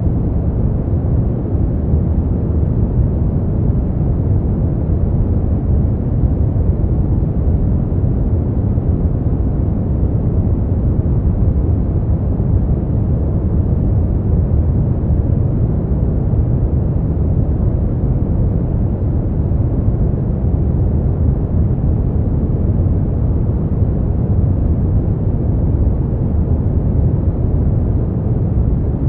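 Steady brown noise: a constant, deep rushing hiss weighted toward the low end, with no changes or events.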